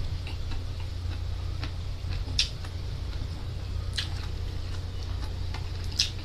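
Close-up mouth sounds of a person chewing fresh seaweed: soft wet clicks and smacks, with three sharper smacks about two seconds apart, over a steady low hum.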